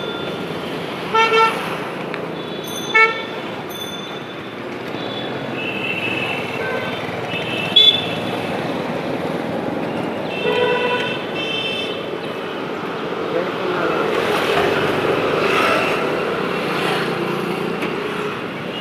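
Vehicle horns beeping several times in road traffic: short toots about a second in, at three seconds and near eight seconds, and a longer honk around the middle. Underneath is the steady noise of riding on the road.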